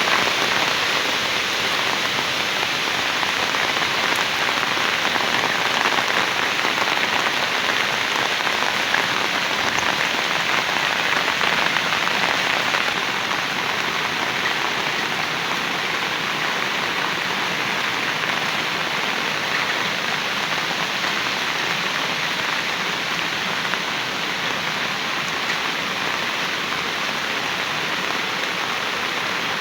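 Heavy rain falling steadily, an even hiss of rain on surfaces that eases slightly about halfway through.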